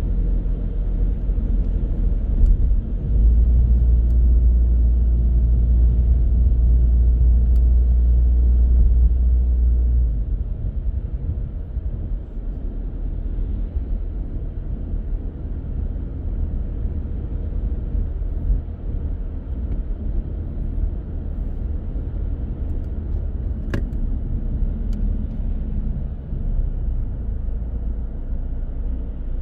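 Car driving in city traffic: a steady low rumble of engine and tyres, louder for several seconds near the start. One short click comes late on.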